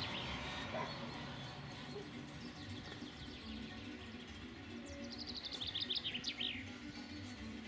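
A songbird singing: a fast run of high notes falling in pitch about five seconds in, after a fainter run earlier on.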